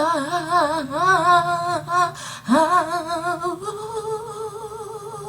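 A woman singing a wordless tune with strong vibrato in short phrases, then holding one long steady note a little past halfway.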